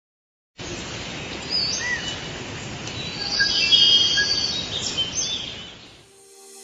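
Several birds chirping, with short calls and quick gliding notes, over a steady outdoor background noise; the sound fades out near the end.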